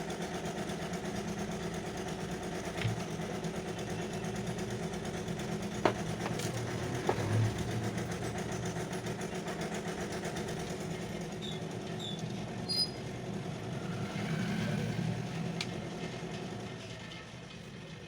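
A steady low hum with several held tones, and a few sharp clicks and knocks scattered through it.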